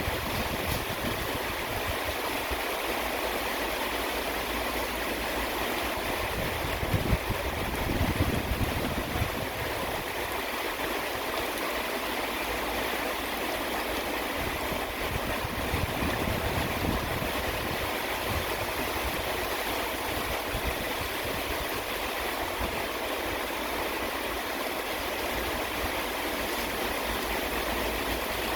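Steady rain falling, an even hiss of water, with a stronger low rumbling about seven to nine seconds in.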